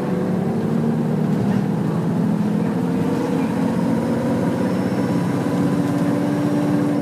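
Nissan Diesel UA city bus's diesel engine heard from inside the bus, pulling under acceleration with its pitch rising steadily.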